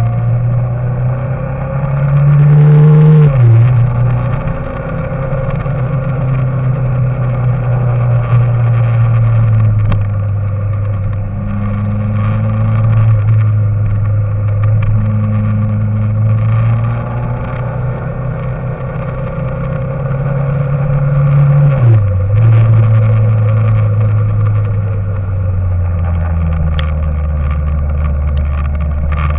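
A vehicle engine running steadily under load, its pitch climbing and then dropping sharply twice, about three seconds in and again near twenty-two seconds.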